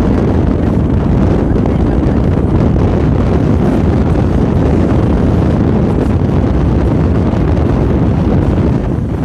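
Wind buffeting a motorcycle rider's microphone while riding: a loud, steady, low rush with no clear engine note.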